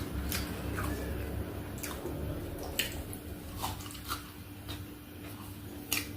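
Wet mouth smacks and clicks of someone chewing food close to the microphone, irregular, with a faint steady hum underneath.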